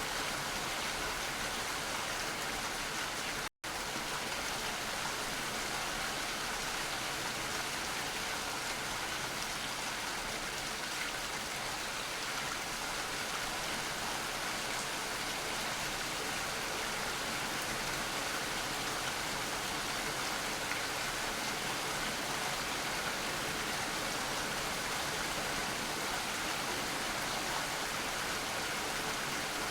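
Steady rain, an even hiss of falling drops with no distinct events, cutting out for an instant about three and a half seconds in.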